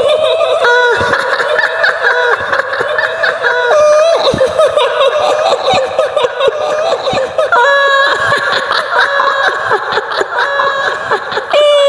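High-pitched woman's cackling laughter in the style of the kuntilanak ghost, a long wavering 'hihihi' that jumps up and down in pitch.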